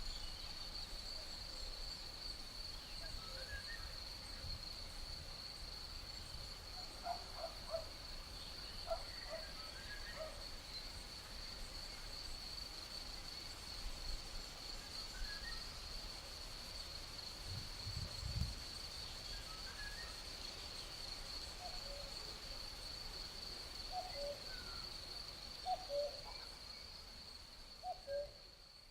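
Night ambience of crickets in a continuous high, steady trill, with scattered short, low calls from another animal in small clusters. There is a brief low thump about 18 seconds in, and the sound fades out at the very end.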